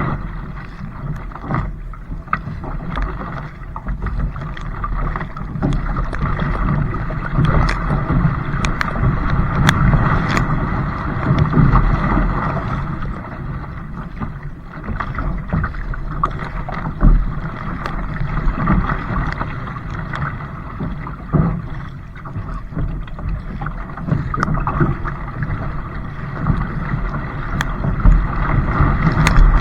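A kayak moving on the water, with water noise and wind buffeting the microphone, and scattered sharp knocks throughout.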